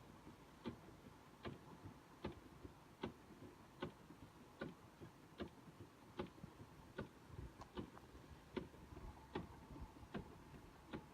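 Faint, steady ticking inside a car, one sharp tick about every 0.8 seconds, over a low rumble.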